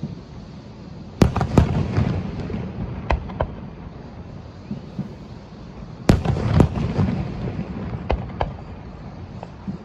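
Aerial fireworks bursting: sharp bangs in clusters, a few about a second in, two around six seconds in and two more near the end, each trailed by a low rumble.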